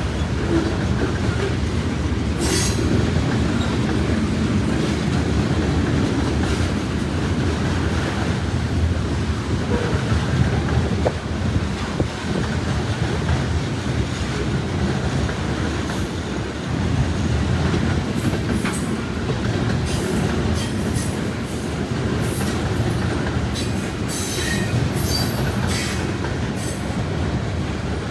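Norfolk Southern freight train rolling past with a steady low rumble of cars on the rails and wheels clacking over joints. In the second half comes a run of short, high wheel squeals and ticks.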